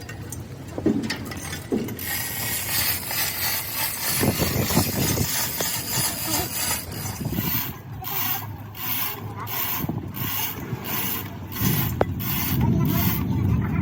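Mechanical hand-tool work on metal: scattered knocks at first, then a regular ratcheting stroke repeating about twice a second through the second half.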